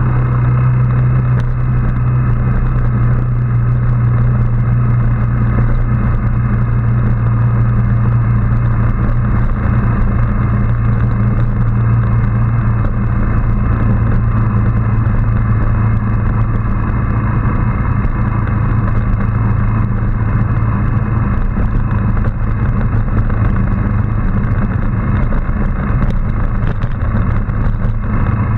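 Motorbike engine running at a steady speed during a ride, a constant drone with no changes in pitch.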